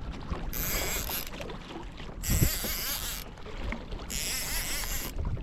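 Water hissing and splashing along a kayak's hull as a hooked kingfish tows it, in surges about a second long that come roughly every two seconds over a low wind rumble.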